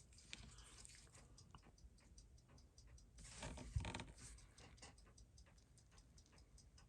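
Faint, irregular light clicks of metal tools against small watch movement parts, with a brief, louder, muffled handling noise about three and a half seconds in.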